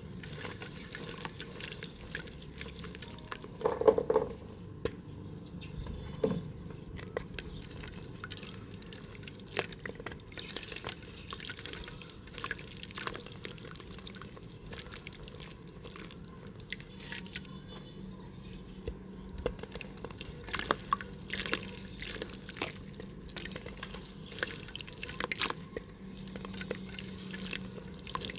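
Mud crumbling in a pot: many small, irregular crackles and drip-like ticks, with one louder sound about four seconds in.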